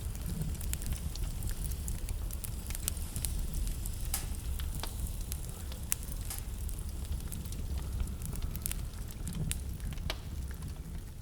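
Burning wood in a fireplace crackling, with sharp irregular pops scattered throughout, a few louder ones about four, five and ten seconds in, over a steady low rumble.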